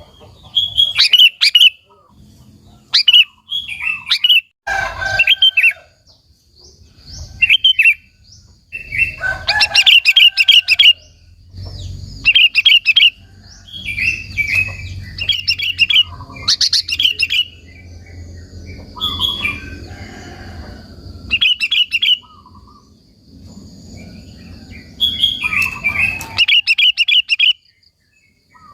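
Sooty-headed bulbul (kutilang) singing: loud, short bubbly chirping phrases repeated in clusters with brief pauses between. A faint steady high whine runs under the second half, with a low rumble in the middle.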